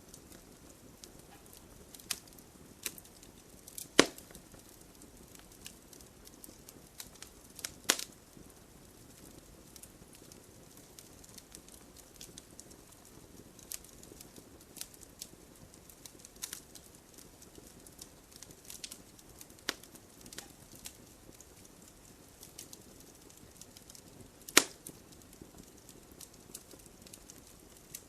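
Wood fire in a fireplace crackling: scattered small snaps over a low hiss, with three sharp louder pops, about four, eight and twenty-four seconds in.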